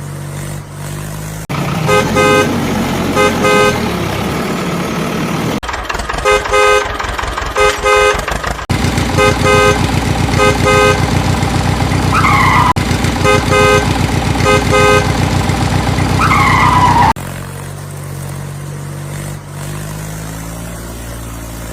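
Vehicle engine running, with horns honking in repeated pairs of short beeps from about 2 s to 17 s, and two brief falling glides near 12 and 16.5 s. Sudden changes in the engine sound suggest pieced-together vehicle sound effects.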